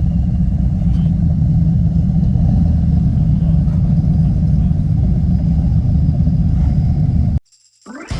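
Steady low rumble of a motorcycle on the move, engine and wind noise together, that cuts off suddenly about seven seconds in.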